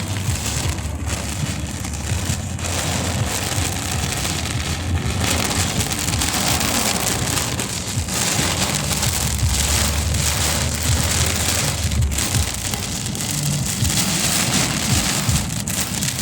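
Heavy downpour: a dense, steady hiss of rain falling, with a low rumble underneath.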